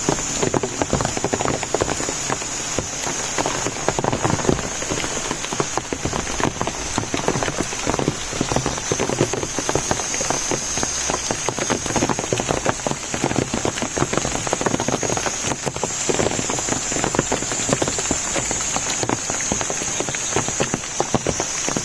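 Steady rain falling, a dense continuous spatter of drop impacts, with a constant high-pitched tone above it.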